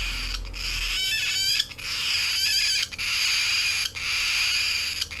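Hand-fed cockatiel chick giving its continuous raspy begging call, a hissing squeal broken by short breaks about once a second, with a few brief rising squeaks mixed in.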